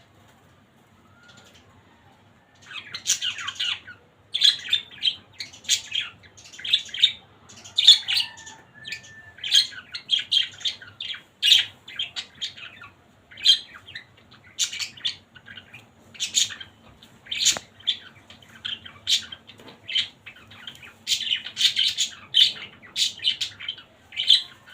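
Budgerigars chirping and chattering in a steady run of short, high calls that start about three seconds in.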